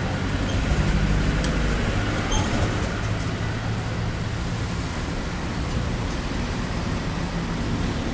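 Road traffic, with a motor vehicle's engine giving a steady low rumble over road noise; it swells slightly about a second in.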